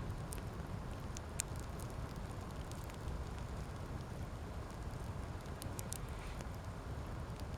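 Wood campfire burning: scattered sharp crackles and pops, one louder snap about a second and a half in, over a steady low rumble.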